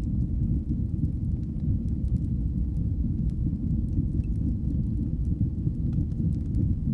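Fire in a fireplace burning with a steady low roar, with scattered faint crackles and pops.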